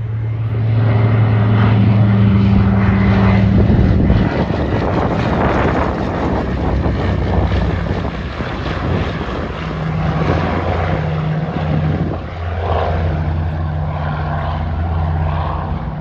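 PBY-5A Catalina's twin radial propeller engines running during a low pass. The sound is loudest for the first four seconds, then the engine note drops as the plane passes and goes on as a lower drone.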